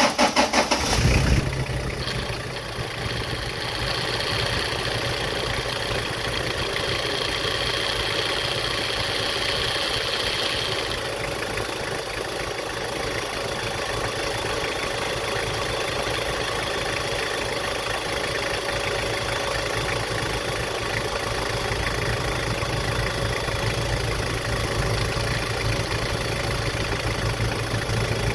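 Toyota Prado engine catching after cranking, then idling steadily. A faint high steady tone runs over the idle for the first ten seconds or so, then stops.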